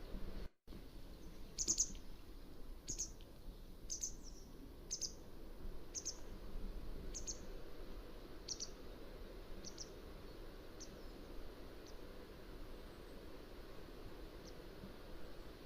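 Mountain wagtail calling: a run of short, high, sharp calls about one a second, loudest in the first half and fading toward the end, over a steady background hiss. The sound cuts out completely for a moment about half a second in.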